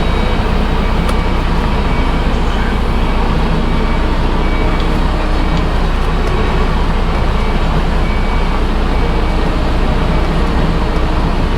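Semi truck's diesel engine running steadily.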